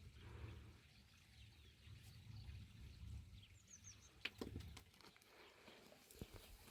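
Near silence: faint outdoor ambience with a low rumble for the first few seconds, a few soft clicks and a brief high chirp.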